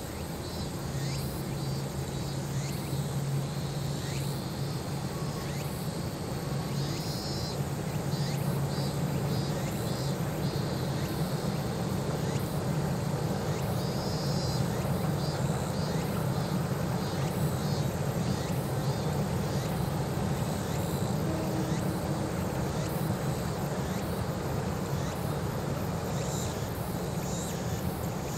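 Distant steady rumble of a narrow-gauge passenger train crossing a steel truss arch bridge, hauled by two EDR electric locomotives, growing a little louder about eight seconds in. High repeated chirping calls sound over it.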